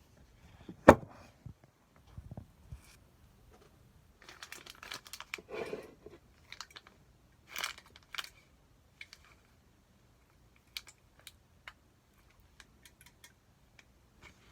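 Takeout food packaging and utensils being handled: a sharp knock about a second in, then crinkling and rustling of plastic packaging, then scattered light clicks.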